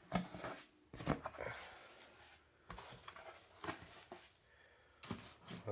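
Cardboard box and packaging being handled and pulled open by hand: irregular scrapes, rustles and light knocks, with short pauses between them.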